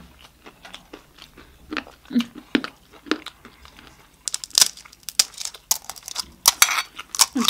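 Crunching and chewing of crisp snack food, a run of short sharp crunches that come thicker and faster from about four seconds in.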